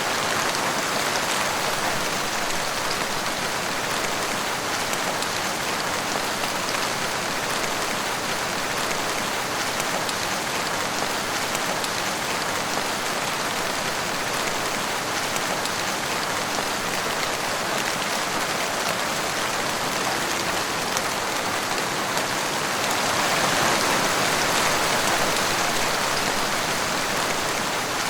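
Heavy rain falling steadily, a dense even hiss of many drops, swelling slightly louder about three quarters of the way through.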